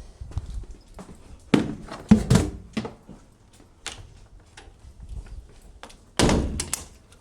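Thunks and knocks of a car door and bodywork being handled, in bursts about one and a half to two and a half seconds in and again about six seconds in.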